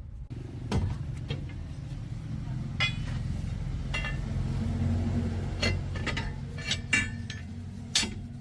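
Metal clinking against metal about seven times, each strike ringing briefly, over a steady low rumble.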